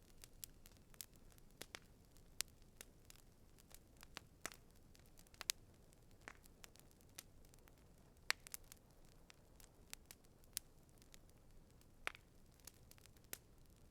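Campfire crackling: irregular sharp pops and snaps, the strongest about once a second with fainter ticks between, over a faint hiss.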